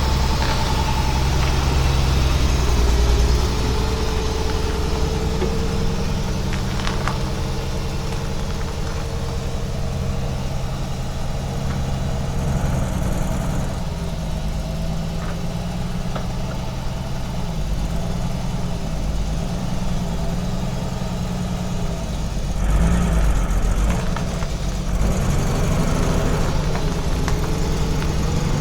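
AC Buckland car engine idling steadily, with a short rise in level about three-quarters of the way through.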